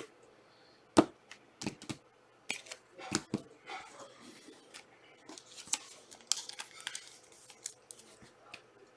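Trading cards and their pack wrappers being handled. There are scattered sharp clicks and taps, the loudest about a second in, and stretches of rustling and crinkling later on.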